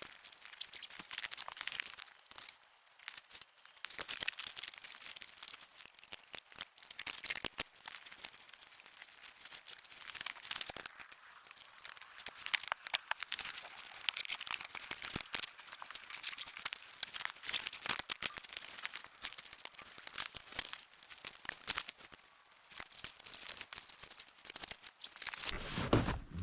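Irregular crinkling and crackling rustle made of many small sharp clicks, mostly high-pitched, continuing throughout.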